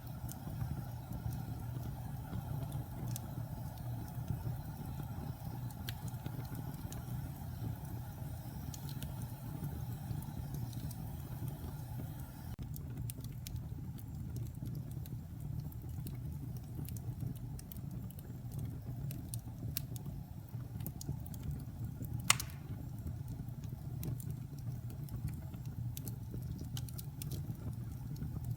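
Wood fire burning in a fireplace: a steady low rumble from the flames with scattered small crackles, and one sharper, louder pop late on.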